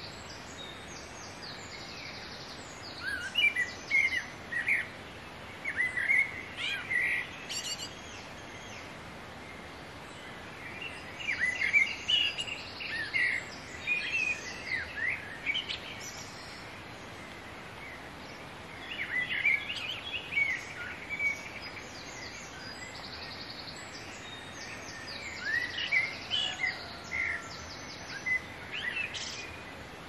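A songbird singing four bouts of quick, varied notes, with pauses of a few seconds between them. Underneath is a steady background hiss and faint higher chirps from other birds.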